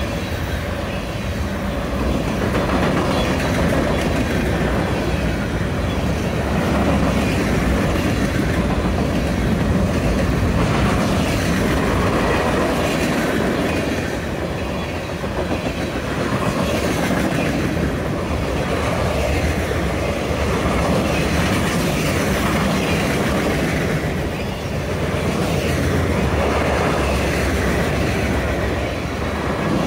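Freight train rolling past steadily, the cars' wheels clicking over the rail joints.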